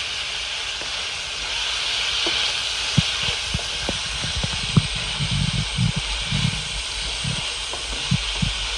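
Sliced onions and sweet peppers sizzling steadily in hot oil in a pan. From about three seconds in, a wooden spoon stirring them gives scattered knocks and scrapes against the pan.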